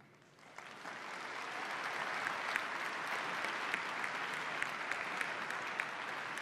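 Audience applauding, swelling in over the first second and then holding steady.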